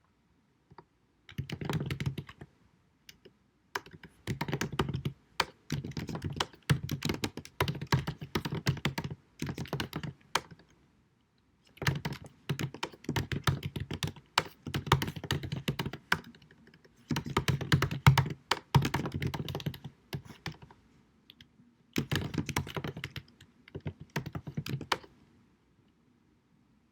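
Typing on a computer keyboard: runs of rapid key clicks a few seconds long, broken by short pauses, ending about a second before the end.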